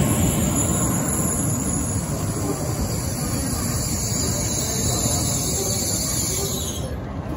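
An N700A shinkansen train moving slowly along the platform, a steady rolling and running noise from its cars.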